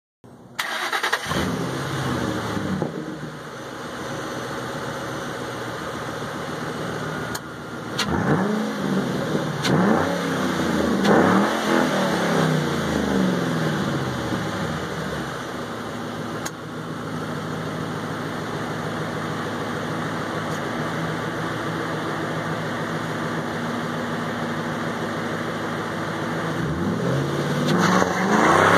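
2005 Ford Mustang GT's 4.6-litre three-valve V8, breathing through an MBRP axle-back exhaust, starting up and settling into a lumpy idle. It is revved in several quick blips and then idles steadily. Near the end the revs climb as the car pulls away.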